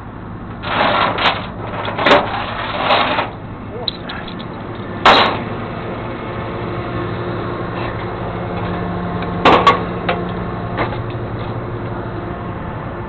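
Truck engine running steadily, with a few sharp knocks: one about five seconds in and two close together at about nine and a half seconds, and bursts of rushing noise in the first three seconds.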